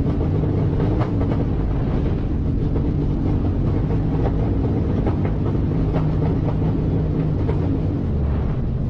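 Steady low rumble of a vehicle on the move: engine and road noise, with a faint engine hum and a few light clicks.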